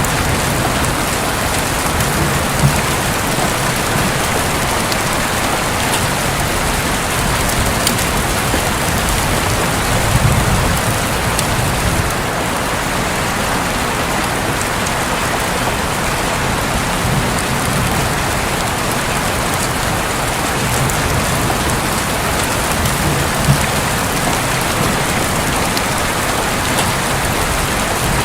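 Heavy rain falling steadily on a roof, a dense even hiss with scattered sharper drop hits. A few soft, low rumbles of distant thunder swell and fade underneath.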